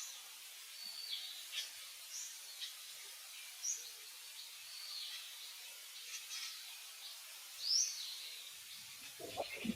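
Birds chirping, short high calls and quick upward sweeps repeating about once a second over a faint outdoor hiss. Near the end, low rustling and thumps begin.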